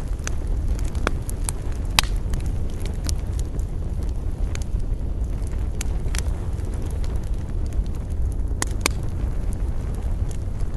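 Campfire crackling, with sharp pops at irregular intervals, over a steady low rumble of wind.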